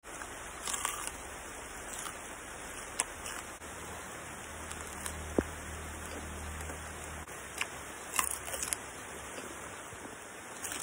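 Raw vegetables being bitten and chewed close to the microphone: scattered crisp crunches and mouth clicks, several bunched together near the end, over a steady hiss.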